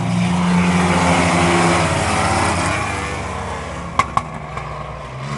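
A pack of race trucks' engines at full throttle just after the start of a short-track race. The sound is loudest in the first couple of seconds, then fades as the pack pulls away. Two sharp clicks come about four seconds in.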